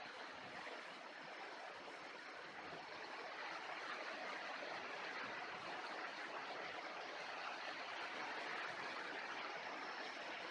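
Steady rushing of flowing water, like a stream or runoff pouring into the pond, growing slightly louder partway through.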